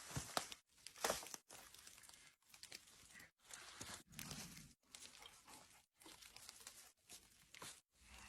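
Branches, leaves and pine needles being handled, with quiet rustling and crunching broken up by short silences. Two sharp knocks in the first second and a half fit a small woodsman's axe cutting branches.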